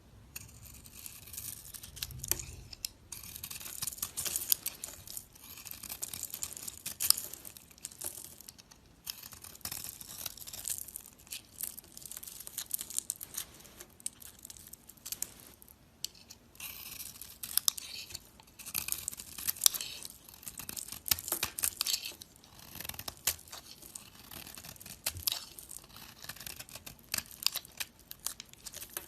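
A blade cutting and shaving into a bar of soap, with crisp crackling scrapes and sharp little clicks as the soap flakes and crumbles. The cutting comes in runs of a few seconds with short pauses between strokes.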